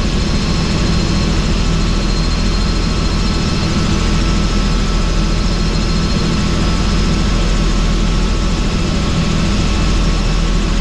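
Helicopter in flight, heard from on board with the doors off: steady, loud rotor and engine noise with a few thin high tones over a low, continuous drone.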